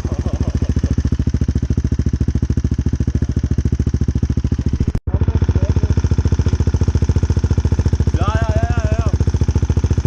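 Husqvarna 701's single-cylinder four-stroke engine idling steadily with an even, thumping pulse through an Akrapovic exhaust with its dB killer (silencer insert) removed. The sound drops out for an instant about halfway through.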